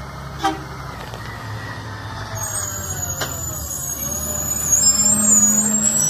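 Recycling garbage truck's diesel engine running as it pulls up, with a short knock about half a second in and a wavering high-pitched squeal joining a couple of seconds in, loudest near the end.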